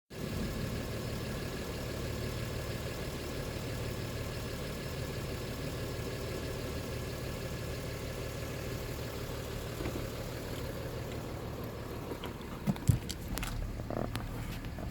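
2011 Mercedes-Benz E350's 3.0-litre V6 turbo diesel idling steadily, with a few short knocks near the end.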